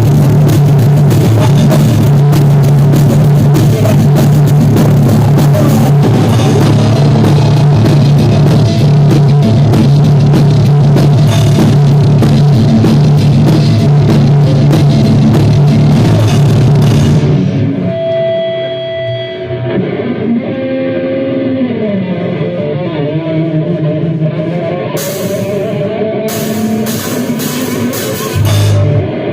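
Live rock band rehearsal: drums and electric guitar playing loud and dense. About two-thirds of the way in, the full band drops out, leaving single held and sliding guitar notes, and the drums come back in near the end.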